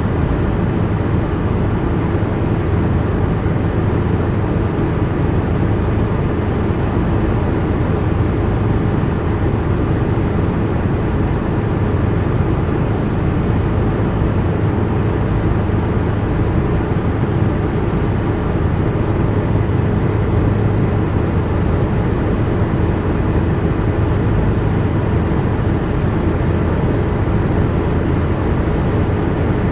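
Helicopter cabin interior: the engine and rotor make a steady, loud, low drone that holds even and unbroken.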